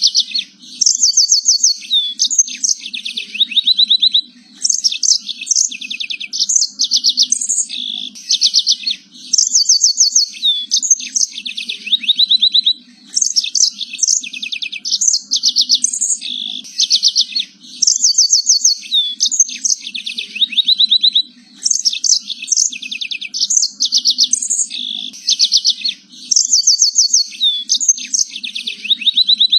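Domestic canary singing a long, continuous song of rapid trills and rolling note series, with brief pauses every few seconds. A faint low hum runs underneath.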